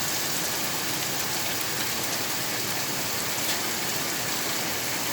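Steady rain falling: an even hiss of rain with scattered ticks of single drops striking a surface.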